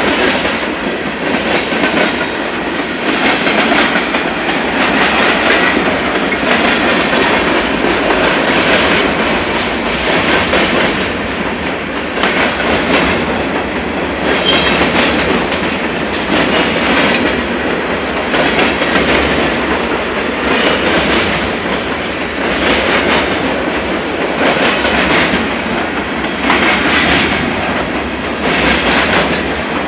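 Freight train's hopper cars rolling past at close range: a continuous rumble of steel wheels on rail with a clickety-clack that swells every second or two as each car's wheels pass.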